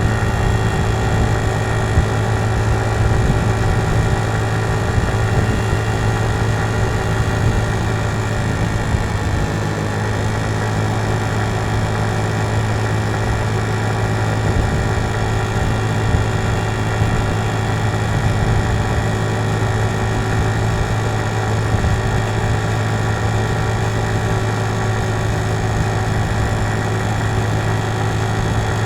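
Small single-cylinder GY6-type 50cc scooter engine running at a steady, even pitch while riding, heard from the handlebars. It holds a constant speed of about 30, and the rider suspects the drive belt or clutch is slipping.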